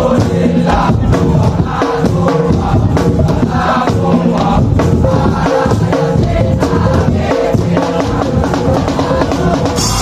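Madurese tong-tong (ul-daul) band playing a sholawat tune: a dense beat of percussion under held melody notes, carried on without a break.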